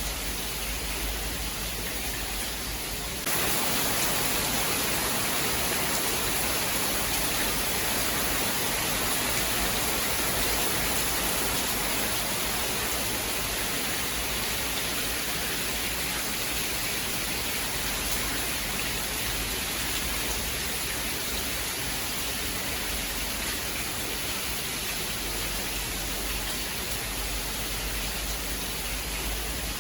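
Steady, heavy rain hiss, an even wash of falling rain with no thunder heard; the level steps up suddenly about three seconds in and then holds.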